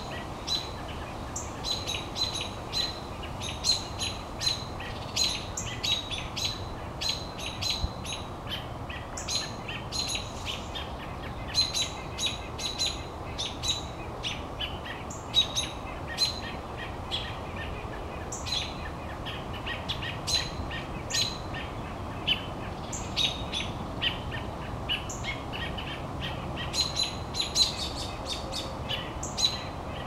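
Birds giving sharp, repeated chirping alarm calls, several a second and overlapping, mobbing a cat that has caught one of their kind.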